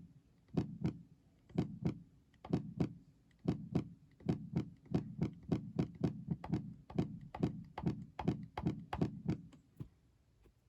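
Low drum hits, a kick- or tom-like sound, played on an Akai MPK Mini Play MK3 in a loose rhythm. They come mostly in pairs at first, then faster, about three a second, toward the middle, and stop about a second before the end.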